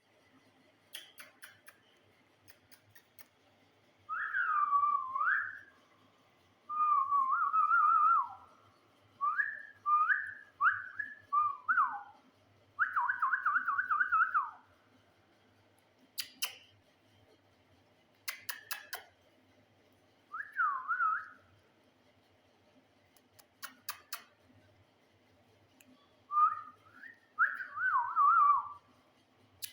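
Parrot whistling a series of short warbling phrases that waver up and down in pitch, with sharp clicks between the phrases.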